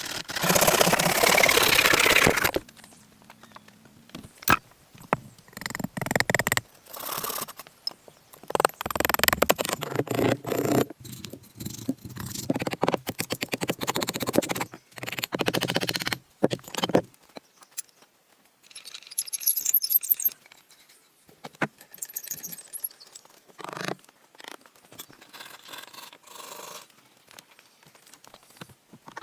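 Irregular bursts of scraping with sharp knocks in between; the longest and loudest scrape comes in the first two and a half seconds.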